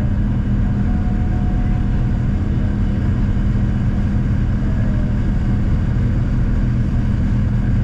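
Boeing 787-9 airliner cabin noise: a steady, loud low hum of engines and airflow with a constant drone, unchanging throughout.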